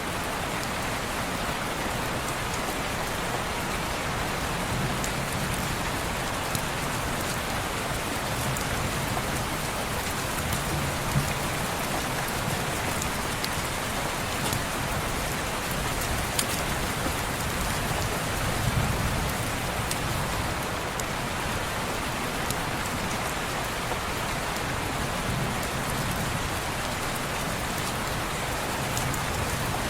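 Steady rain on window glass: an even hiss with scattered faint ticks of single drops.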